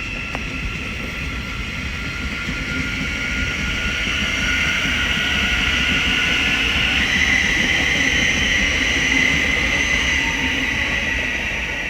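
Thameslink Class 700 electric multiple unit pulling away from the platform, its traction motors giving a steady whine that steps to a new pitch about seven seconds in. It grows louder, then begins to fade near the end.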